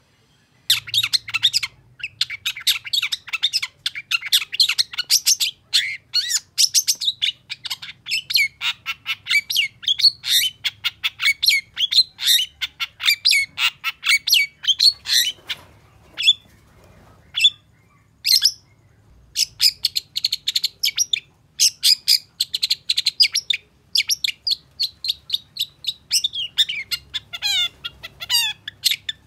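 Long-tailed shrike (cendet) singing: a fast, dense chatter of short high notes, starting about a second in. Midway the notes thin out to a few scattered calls for several seconds before the rapid chatter resumes.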